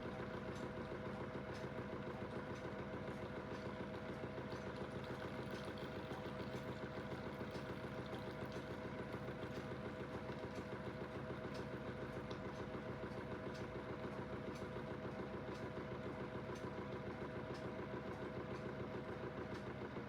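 Aidoo 1 kg mini washing machine on its final spin, its direct-drive motor running the drum at a steady speed with a constant whine over an even hum.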